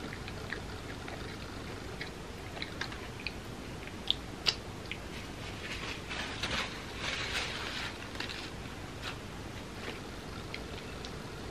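Close-miked chewing of a mouthful of cinnamon roll topped with chocolate spread and M&M candies, with small wet mouth clicks throughout. There are two sharper clicks about four seconds in, and a louder stretch of noise a little past the middle.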